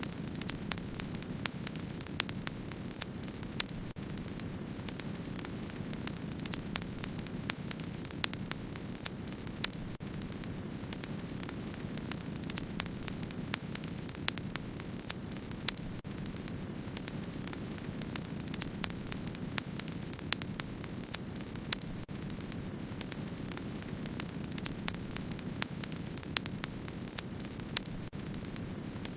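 Wood fire crackling: a steady low rush of burning with frequent small irregular crackles and a few sharper pops.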